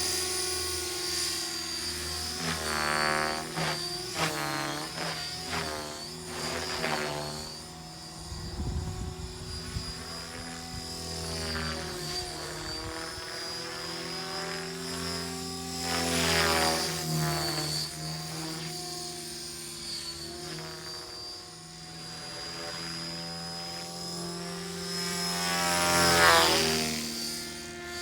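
Radio-controlled model helicopter flying: a steady high motor whine over the rotor hum. It grows louder as the helicopter comes close, about three seconds in, around the middle and near the end.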